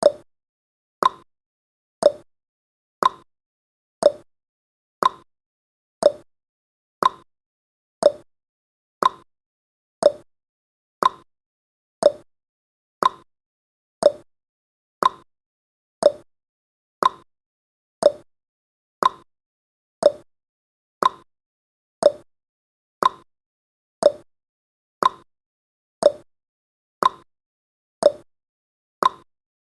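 Clock-style ticking sound effect of a countdown timer: a short sharp tick exactly once a second, steady and even.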